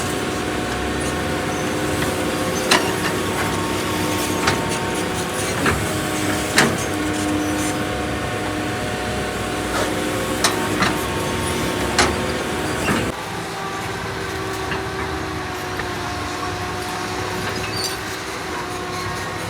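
Excavator engine running steadily under work, with sharp metallic clanks every few seconds. About two-thirds of the way through, the engine note drops and runs on quieter.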